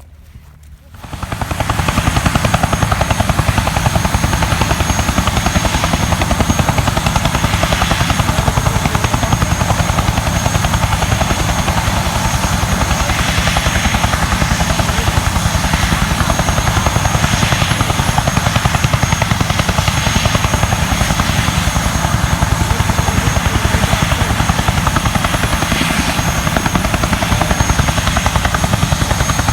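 Bell Huey-type helicopter running at close range: loud, steady turbine and fast rotor chop, which comes in abruptly about a second and a half in.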